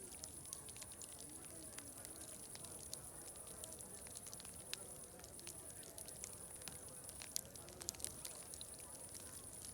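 Wood fire crackling with many irregular sharp pops, over a faint murmur of distant crowd chatter and a steady high-pitched hiss.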